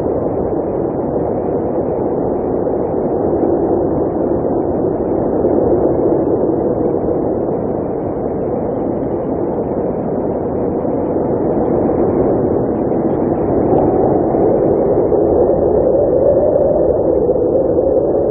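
Blizzard wind blowing steadily: a continuous low rushing noise that swells and eases a little.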